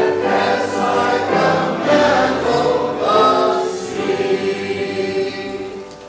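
Congregation singing a hymn together in long held notes, the sound fading away near the end as the hymn closes.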